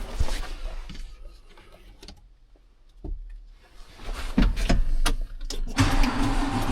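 A few clicks and knocks in the cab, then, near the end, a Fendt tractor's diesel engine starts and runs with a steady hum and rumble.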